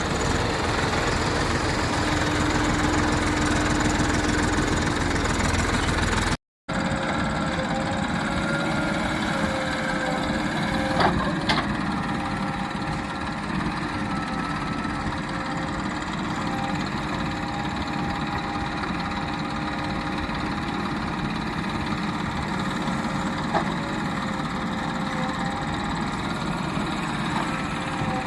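Diesel engines of a JCB backhoe loader and tractor running steadily at work. The sound cuts out briefly about six seconds in.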